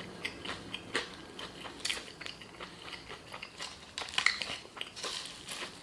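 Close-up chewing and crunching of crispy fried chicken, with irregular sharp crackles and smacking sounds.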